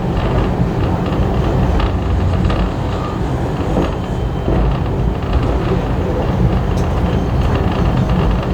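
Passenger carriage behind a steam locomotive riding along the line: a steady, loud rumble of wheels and running gear on the rails, heard aboard.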